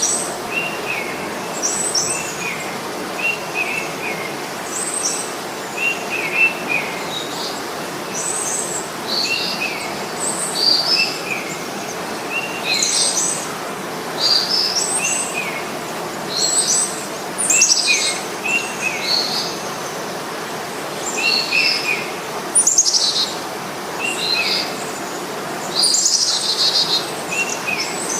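Several songbirds chirping: short high notes and quick falling calls, repeating every second or so, over a steady background hiss.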